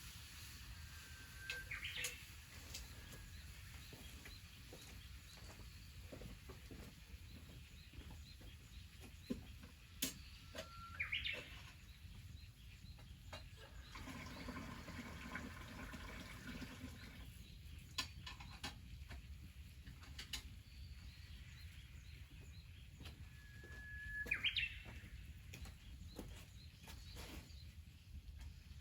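A songbird gives the same call three times, about ten seconds apart: a held whistled note followed by a quick higher flourish. Faint scattered clicks and a low steady rumble run underneath.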